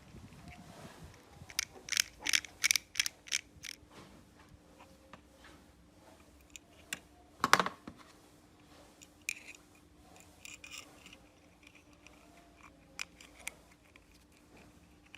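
Small metal parts of a Zippo lighter being handled in a workshop: a quick run of about eight sharp clicks starting about a second and a half in, one heavier knock about halfway, then a few scattered lighter clicks, over a faint steady hum.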